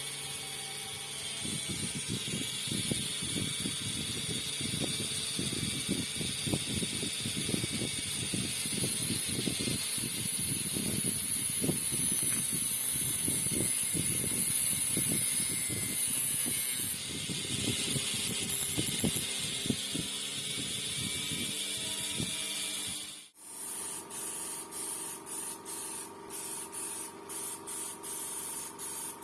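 Paint being sprayed: a continuous hiss, with light knocks under it, that gets louder partway through. It stops abruptly about 23 seconds in and gives way to short, evenly repeated spurts of about two a second.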